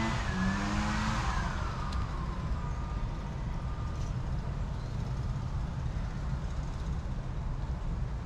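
A motor vehicle passing by, its engine tone falling in pitch over the first couple of seconds, followed by a steady low rumble.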